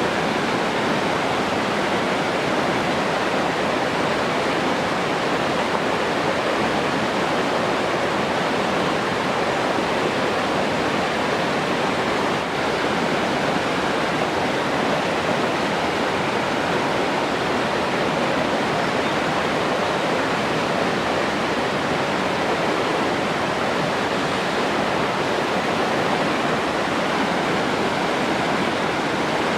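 Running water rushing steadily, an even, unbroken hiss.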